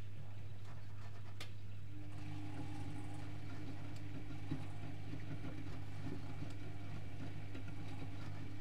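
Privileg Multispar 5110 front-loading washing machine running its 75 °C boil wash: a steady low hum, a single click about a second and a half in, then a motor whine that starts about two seconds in and runs on steadily.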